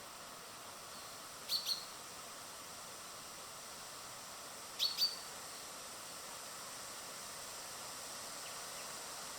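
Small birds chirping: two short high calls in quick succession about one and a half seconds in, and two more about five seconds in, over a steady outdoor hiss.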